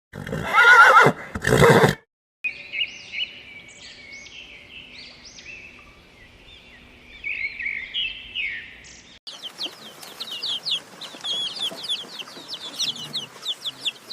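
A horse whinnying for about two seconds. Then, after a short break, a run of high chirping calls from chickens, which turns quicker and denser about nine seconds in.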